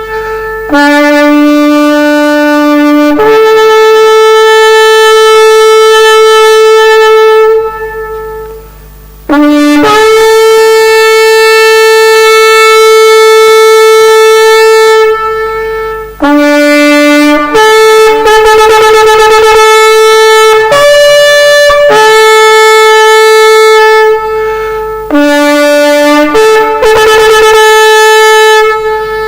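Shofar (ram's horn) blown in a series of blasts, most starting on a lower note and jumping up to a higher one. Two blasts are held for about five seconds each; the later ones are shorter, and some waver rapidly.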